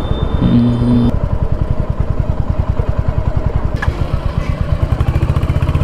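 Royal Enfield Hunter 350's single-cylinder engine running at low revs with an even, rapid thumping beat.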